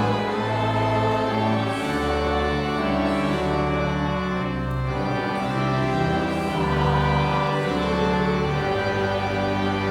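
Church organ playing a hymn in slow, sustained chords, with choir and congregation singing along.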